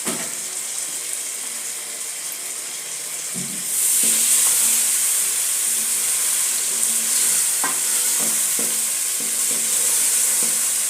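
Chicken pieces frying in hot oil, a steady sizzle that grows louder about four seconds in, with a few light knocks.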